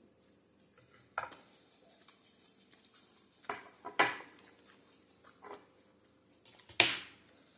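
Utensils clinking against dishes in about five separate sharp clinks, the loudest about four seconds in and near the end.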